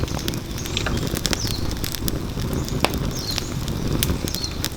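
Firewood burning in an open fire pit, crackling with scattered sharp pops and snaps over a steady low rumble.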